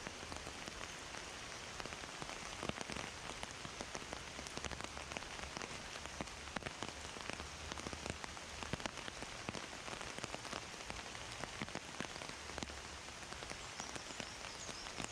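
Heavy rain falling steadily through rainforest, a constant hiss with many individual drops pattering and splashing on leaves and surfaces.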